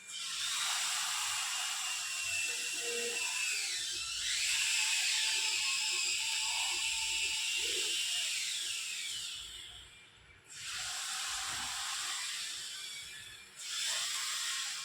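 Servo motors of an InMoov 3D-printed humanoid robot whirring as it moves through gestures, in long stretches with pitch gliding up and down, pausing briefly about ten seconds in and again near the end.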